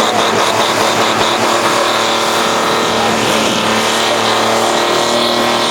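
A pulling tractor's turbocharged engine running hard and steady under full load during a pull.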